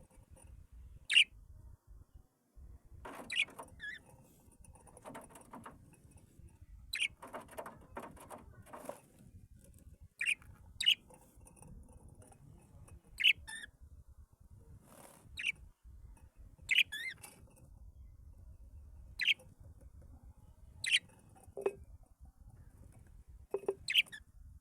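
Pet bird giving short, sharp single chirps every second or two, with some rustling between them.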